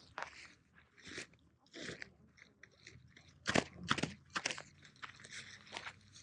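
Irregular crunching and crinkling, with a few louder crunches in the middle.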